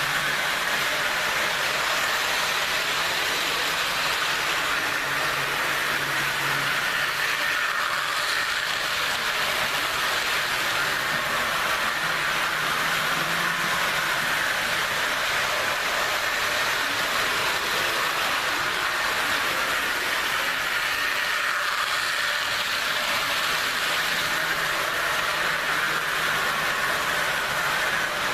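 HO-scale Jouef Amtrak RTG Turbotrain model trains running on the track: a steady motor whine with wheel noise on the rails. A lower hum comes and goes several times.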